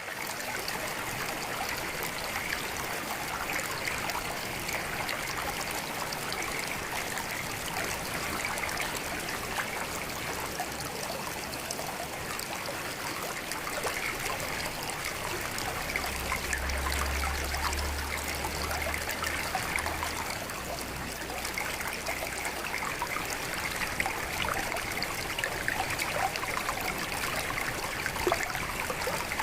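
Small stream of clear water trickling steadily, with a brief low rumble about halfway through.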